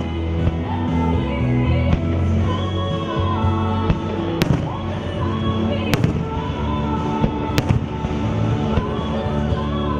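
Fireworks shells bursting in three sharp reports about a second and a half apart, over the show's soundtrack music with singing.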